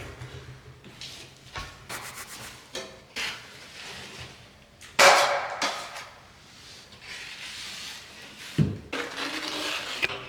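Drywall tools at work: irregular scraping, rubbing and knocking, with a louder sharp knock about five seconds in and another near the end.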